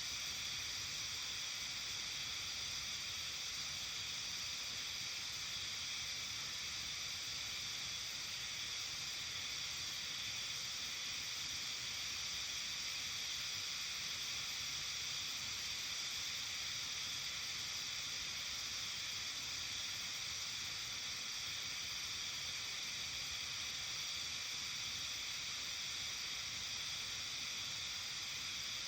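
Steady evening ambience of a Japanese mountain village in early summer: an even, high-pitched hiss with no single sound standing out.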